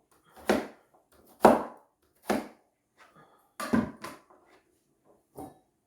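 Kitchen work: four loud, sharp knocks on a hard surface, irregularly spaced, with a few lighter taps between and one more near the end.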